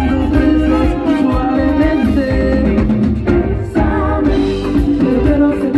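Live Latin band playing a merengue with singing over drums and percussion.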